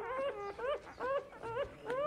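An animal giving a quick series of short, whining calls, about three a second, each rising and then falling in pitch.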